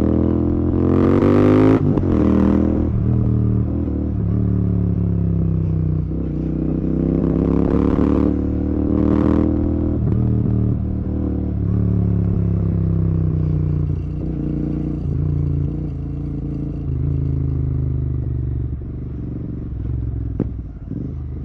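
Royal Enfield Continental GT 650's 648 cc parallel-twin engine running through an aftermarket Red Rooster exhaust on the move. The engine note rises under throttle about a second in and again around eight seconds, and drops back between.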